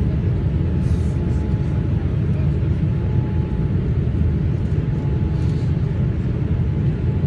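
Steady roar of a Boeing 787 Dreamliner in flight, heard from inside the passenger cabin: a deep, even rumble of engine and airflow noise with a faint steady hum above it.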